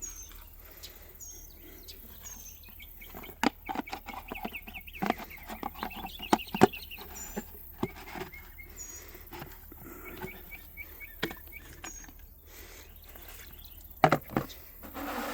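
Young poultry chicks peeping in short high chirps, over a run of sharp plastic clicks and knocks as the base of a chick waterer is screwed down and handled.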